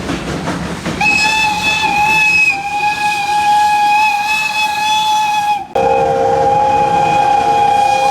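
Steam locomotive whistle blowing. A hiss of steam comes first; about a second in, a long steady whistle starts. After about five seconds it cuts off sharply and gives way to a lower, two-note whistle chord.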